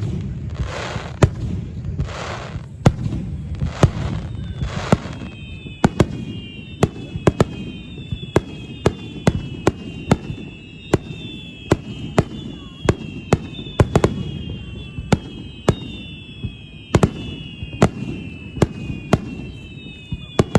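Aerial fireworks display: a rapid barrage of sharp bangs, about two a second, over a low rumble, with bursts of crackle in the first few seconds. From about four seconds in, a series of falling whistling tones repeats over the bangs.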